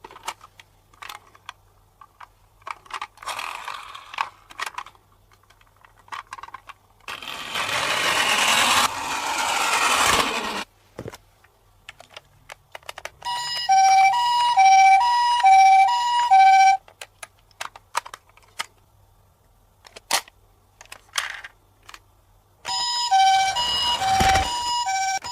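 Toy ambulance's electronic hi-lo siren: two tones alternating about every half second, sounding twice for a few seconds each time. Between the sirens come scattered plastic clicks and knocks and a rush of noise lasting about three seconds.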